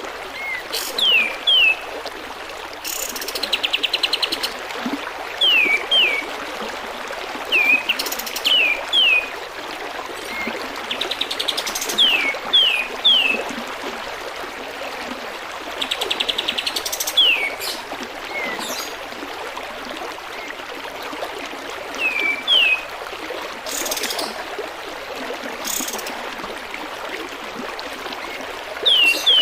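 Kapas tembak birdsong: short sharp whistles that slur downward, mostly in twos and threes, alternating every few seconds with fast buzzy rattling trills. Beneath it runs a steady trickle of water.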